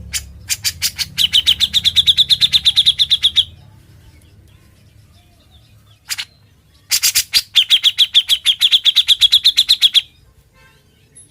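Grey-cheeked bulbul (cucak jenggot) giving two bursts of fast, rattling 'ngebren' calls, each a rapid run of sharp notes, about ten a second, lasting around three seconds, with a short pause and a single brief call between them.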